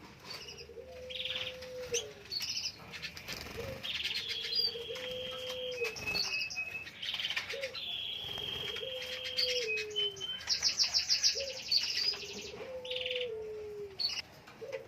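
Canary singing: long held whistled notes and fast rolling trills, with a rapid high trill about ten seconds in. Beneath it a low cooing call, falling in steps, repeats about every three seconds.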